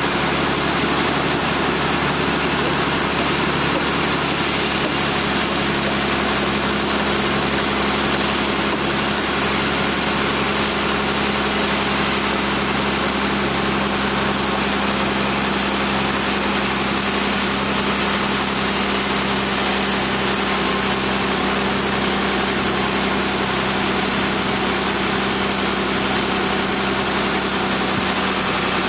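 Sawmill machinery running steadily: a constant hum and noisy drone with a regular low pulse that repeats a little more than once a second.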